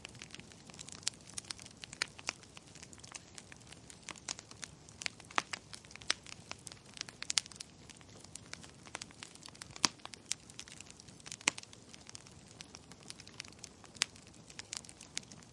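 Burning logs crackling: irregular sharp pops and snaps, several a second and varying in strength, over a faint steady low hiss.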